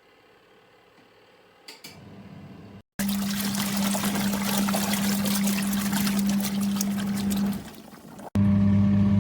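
Compact twin-tub washing machine running: a steady electric motor hum under loud rushing, churning water for several seconds, which stops abruptly. Near the end the motor hum comes back alone and steady, without the water.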